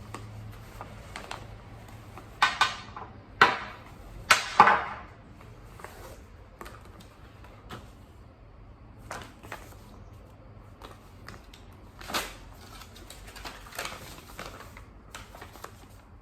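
Packaging and a jump rope being handled during unboxing: scattered clicks and light knocks, with louder rustling crinkles from about two and a half to five seconds in and again around twelve seconds.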